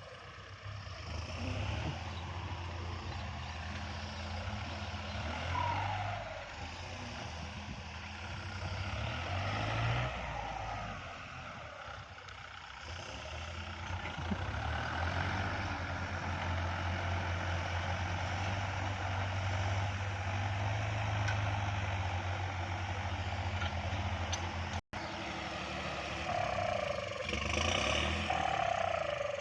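Kubota MU4902 tractor's diesel engine running steadily under load, pulling a disc plow through the field.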